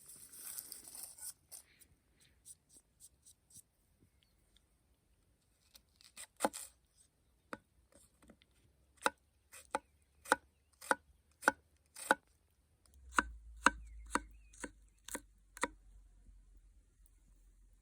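Knife chopping food on a cutting board: a brief rustle, then a steady run of sharp chops at about two a second for some ten seconds.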